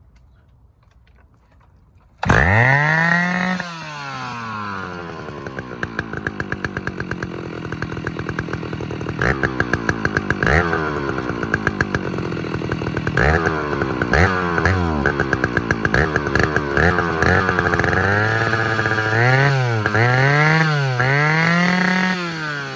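Stihl 045 Super two-stroke chainsaw starting about two seconds in, revving high at once and dropping back to idle. It idles with short throttle blips, then is revved up and down several times in quick succession near the end.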